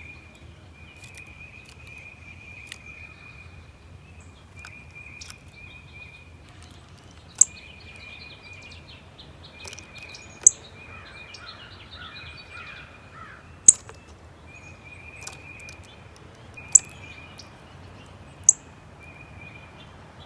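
Backyard songbirds: five loud, sharp, high chip notes a few seconds apart over a continuous high-pitched buzzing trill that breaks off every second or so, with a short burst of twittering about halfway through.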